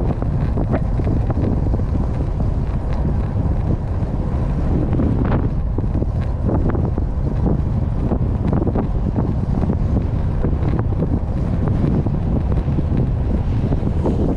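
Heavy wind buffeting the microphone: a steady low rumble with scattered short knocks and pops.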